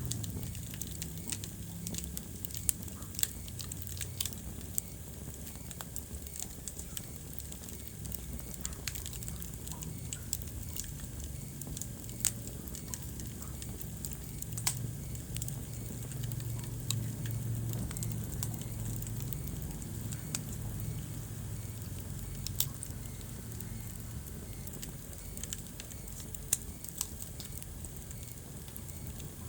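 Wood fire burning in a fireplace: a steady low rumble of flames with constant fine crackling and scattered sharper pops from the logs.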